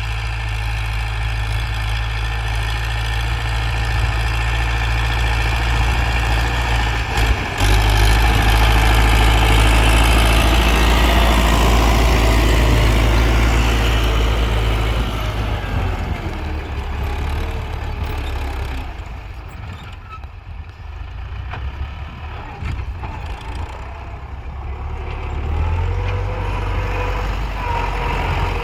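Belarus tractor's diesel engine running with a loud low rumble. It grows louder over the first half, cuts out briefly about seven seconds in, falls quieter for several seconds past the middle, and rises again near the end.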